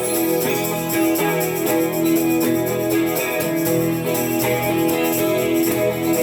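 Band music without singing: an instrumental passage led by guitar, with held chords over a steady beat.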